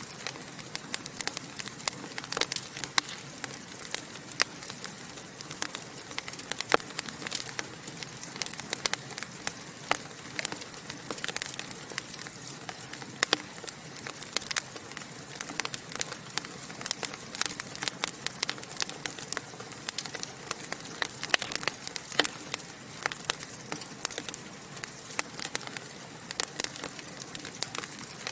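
Wood fire in a fireplace crackling, with many small irregular snaps and pops over a soft steady hiss.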